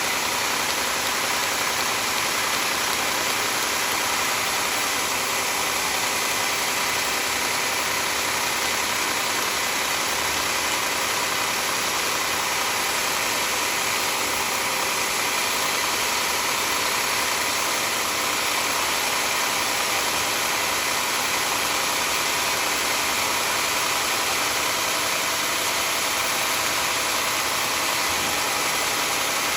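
Sawmill machinery running steadily, a constant mechanical hum and whir that stays level throughout.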